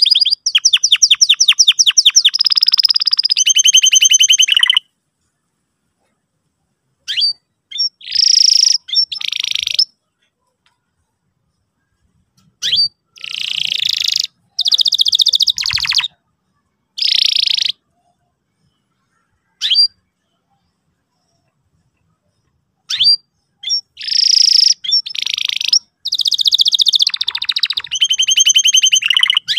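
Domestic canary singing in loud bursts of rapid chirps and trills. One phrase is a fast run of repeated notes, about eight a second. The phrases are cut apart by stretches of dead silence.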